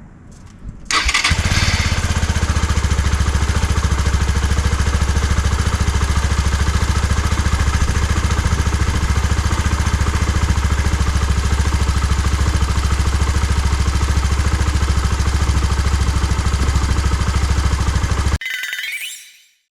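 Suzuki VanVan 200's single-cylinder four-stroke engine starting about a second in and idling steadily, then cutting off near the end.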